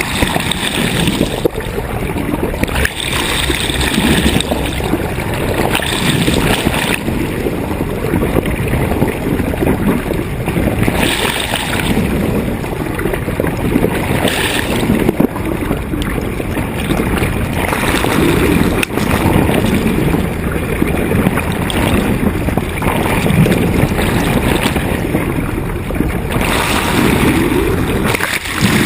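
Wind buffeting the microphone over water rushing along a sailboat's hull, a steady loud rush that swells and eases in gusts.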